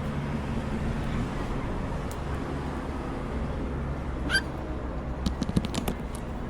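A single short cockatiel chirp about two-thirds through, followed by a quick cluster of sharp clicks, over a steady low rumble.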